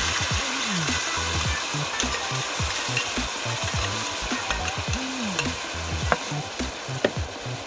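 Food sizzling and frying in a cast-iron pan: a steady hiss with a few sharp ticks and pops scattered through.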